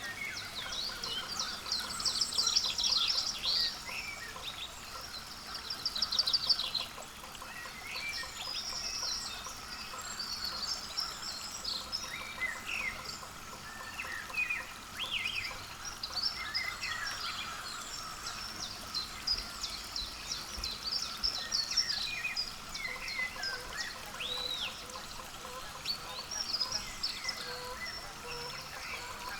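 Several small songbirds chirping and calling, with a couple of rapid trills in the first several seconds.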